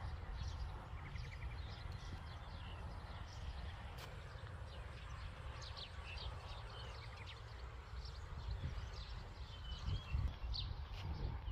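Small birds chirping, with a couple of quick trills, over a steady low rumble; a few louder low thuds come near the end.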